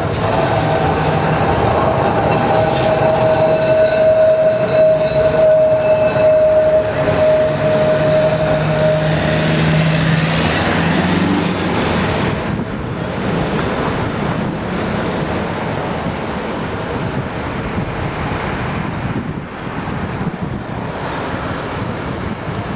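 Electric tram passing on its rails, its traction motors and gears giving a steady whine that drifts slightly lower in pitch and stops about nine seconds in, followed by running noise from the wheels and body.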